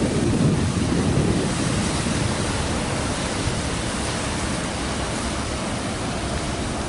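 Steady rushing of wind on the microphone mixed with harbour water wash. It is heaviest and deepest at the start and eases a little after the first second or two.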